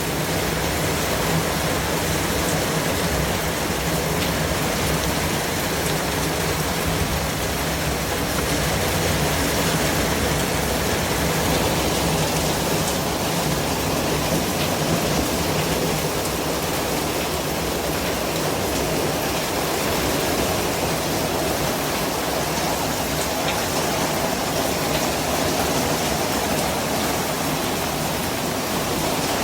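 Steady white noise: an even hiss at a constant level, with no changes.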